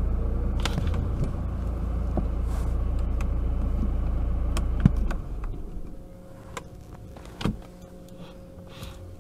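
Saab 9-5's engine running at low speed, heard from inside the cabin as the car creeps forward. About five seconds in, the engine's low hum cuts out as the car stops at the car wash's STOP signal. What is left is a quieter hum with a few light clicks and a knock.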